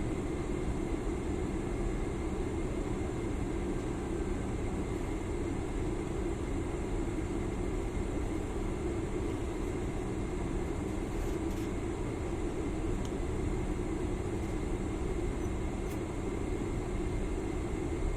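Steady airliner cabin hum while the aircraft sits stopped on the ground, with a deep even rumble and faint steady high whines.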